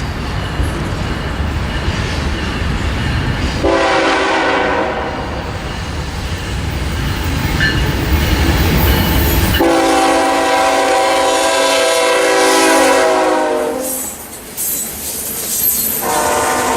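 Nathan K5HL five-chime horn on a CN GE ES44AC locomotive sounding three blasts, the middle one longest and the last still sounding at the end. The train's low rumble lies under the first part.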